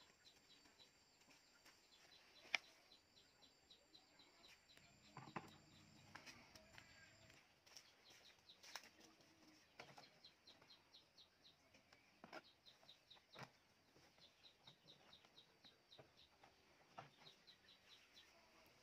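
Faint bird chirping in quick runs of short, high notes, over quiet rural ambience. Scattered light knocks and clicks are heard, the sharpest about two and a half seconds in.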